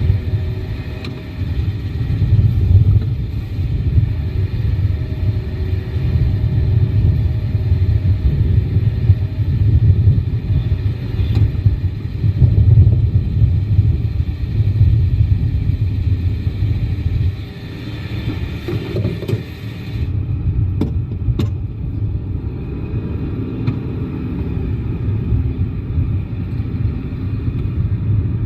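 Yamaha Tracer 9 GT's inline-three engine running under way, with a heavy, uneven low rumble of wind buffeting the microphone. About two-thirds of the way through, the higher hiss drops away and the rumble becomes steadier.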